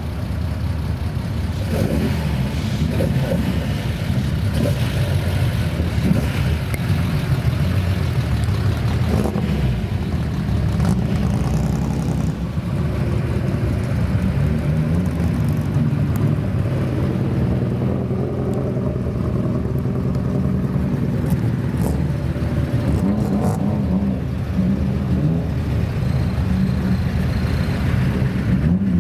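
Car engines running and revving, a continuous low rumble that rises and falls.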